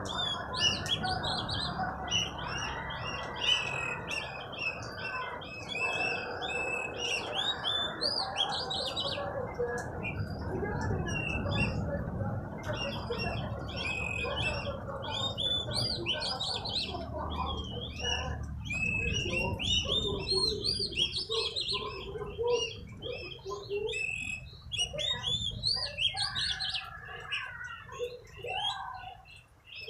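Oriental magpie-robin (kacer) in full song: a continuous run of varied whistled phrases with quick rising and falling notes, over steady background noise.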